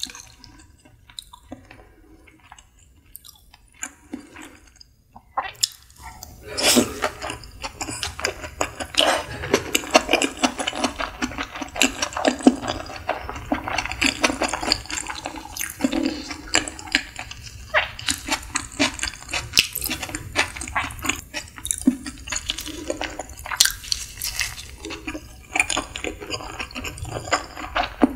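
Close-miked wet chewing of nigiri sushi with the mouth closed: a few soft mouth clicks at first, then from about six seconds in a dense, steady run of sticky, wet chewing clicks and squishes.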